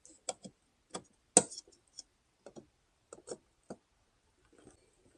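Plastic parts of a center console lid clicking and knocking as a piece of the replacement lid kit is worked into place by hand: about ten short, irregular clicks, the loudest about a second and a half in.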